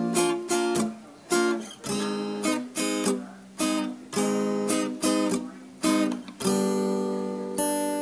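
Intro music: an acoustic guitar strumming chords, each strum ringing out and fading, ending on a long held chord.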